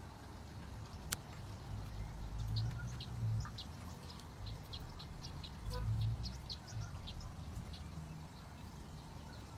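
Small birds chirping in quick, short high calls for most of the clip, over a steady low rumble. There is a single sharp click about a second in.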